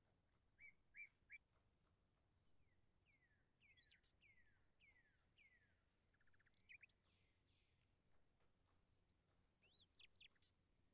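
Faint birdsong: a few short chirps, then a run of quick downward-sweeping whistled calls, a brief high steady whistle, and more chirps near the end.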